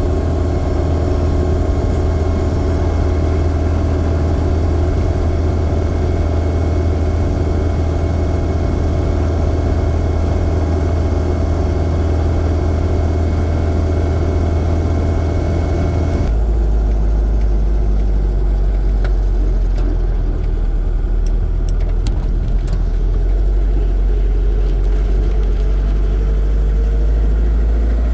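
Land Rover Series 2a's engine and drivetrain droning steadily while driving. A little past halfway the sound abruptly turns deeper and duller.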